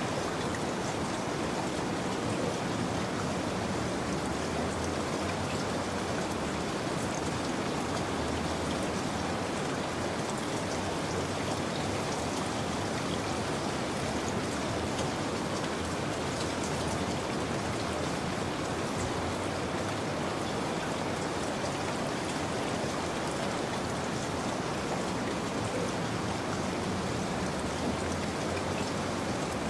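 Steady rain falling, an even, unbroken patter of drops on a surface.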